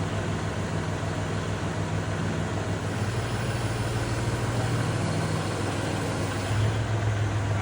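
Kubota tractor's diesel engine running steadily, its low hum growing louder about three seconds in and again near the end as it takes more throttle.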